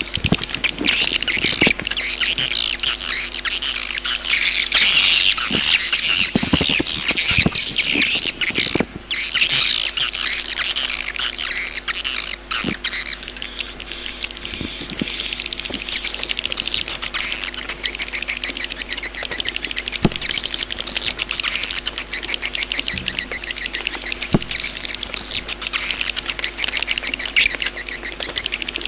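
Swiftlets calling: dense, continuous high twittering and rapid chattering trills from many birds, the kind of swiftlet call recording ('jaguar' call) played to lure swiftlets to a nesting house.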